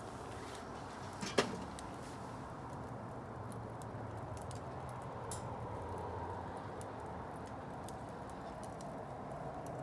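Bonfire of burning wood crackling, with scattered small pops over a steady low rush and one sharper pop about a second and a half in.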